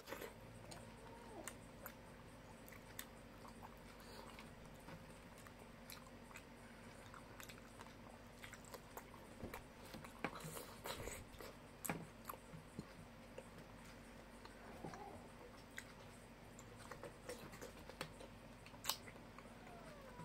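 A person eating ripe mango slices by hand, with faint chewing and biting. Scattered small clicks and taps run through it, a cluster about halfway through and one sharp click near the end.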